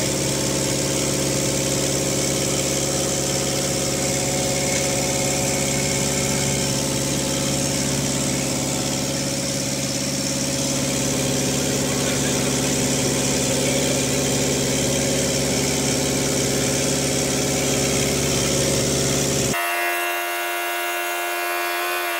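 Jeep Grand Cherokee engine idling steadily while stop-leak circulates through its leaking cooling system. About twenty seconds in the sound cuts off abruptly and gives way to a thinner, steady, higher-pitched hum without the low rumble.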